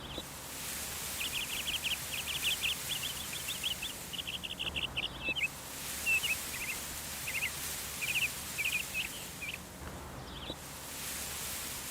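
A songbird singing quick, high trilled phrases, several in a row with short gaps, over a steady outdoor hiss.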